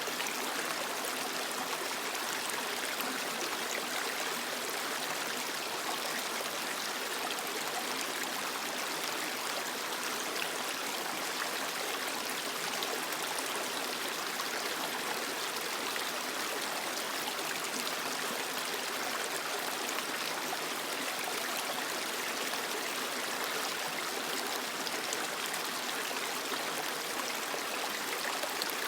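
Small creek flowing over rocks, a steady rushing and trickling of water.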